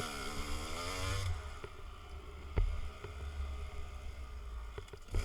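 A 250 dirt bike's engine drops in revs over the first second, then runs low under heavy wind buffeting on the microphone. A couple of sharp thumps come from the bike over ruts, one midway and one near the end.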